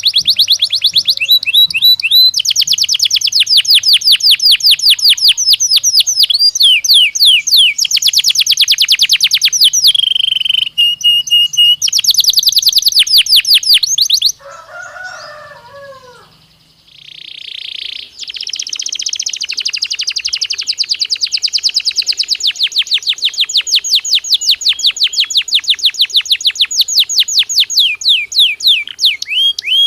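Belgian canary singing: long, fast trills of rapidly repeated high notes, changing from one rolling phrase to the next. A little before halfway the trilling breaks off for a couple of seconds, with a few lower, falling notes, then resumes in one long sustained trill.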